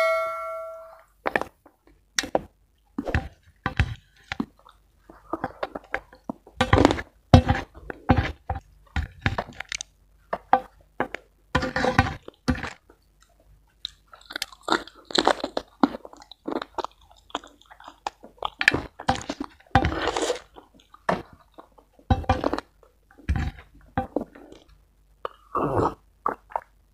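Close-miked mouth sounds of a person eating spicy chicken rica-rica and rice by hand: wet chewing, lip smacking and some crunching, in quick irregular smacks.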